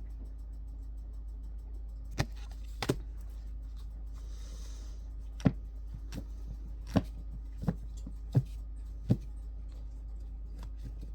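About seven short, soft taps at irregular intervals as tarot cards are handled and laid down on a table, with a brief papery slide in between, over a steady low hum.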